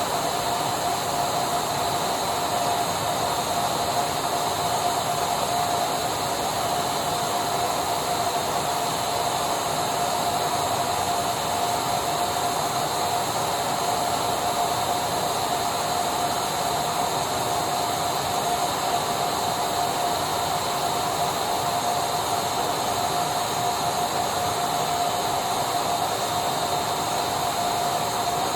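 Vacuum cleaner running steadily: an even whooshing noise with a constant mid-pitched whine, unchanging throughout.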